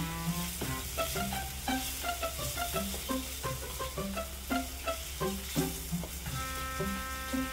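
Chili paste sizzling in an aluminium wok as a slotted spatula stirs and scrapes through it, with background music of quick plucked notes over it.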